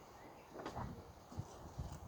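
A few faint, short thumps and scuffs of people's feet moving on the floor.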